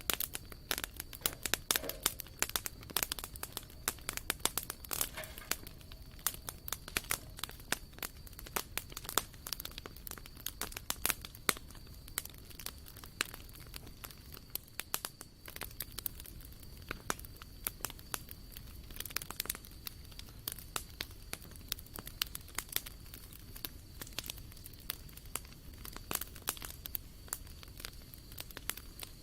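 Wood campfire crackling: irregular sharp pops and snaps, a few of them loud, over a soft low rush, with a faint steady high whine throughout.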